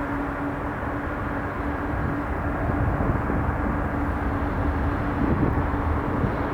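Boeing 747 jet engines heard from the ground: a steady, deep rumble with an even hum, slowly growing louder.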